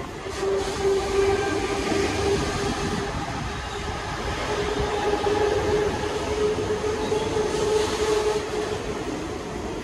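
A Mumbai suburban local electric train running along the track with a steady rumble. A held whining tone sounds over it for the first three seconds or so, breaks off briefly, and returns for about four more seconds.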